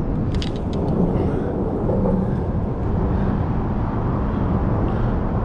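Steady low rumble of vehicle traffic on the bridge, with a few short clicks about half a second in.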